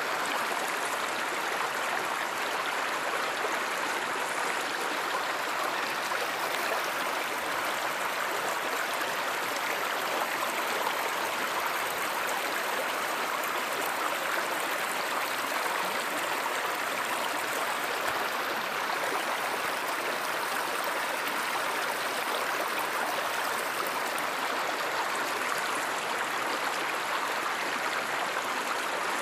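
Water of a river or stream running steadily, an even rushing and gurgling without breaks.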